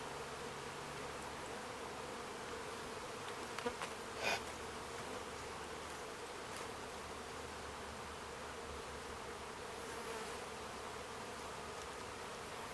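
A swarm of honeybees buzzing, a steady, even hum. A couple of faint knocks sound a little before and just after 4 s.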